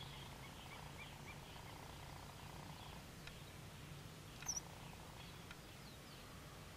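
White-headed marsh tyrant calling with faint, short, high chirps, with one sharper high note about four and a half seconds in, over a steady low background hum.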